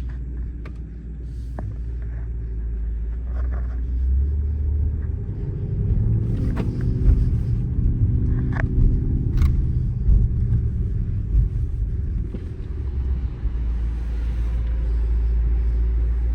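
Straight-piped Mercedes-AMG GT63 S twin-turbo V8 rumbling low as the car drives. It grows louder for several seconds in the middle, with a few sharp clicks, then settles into a steady drone.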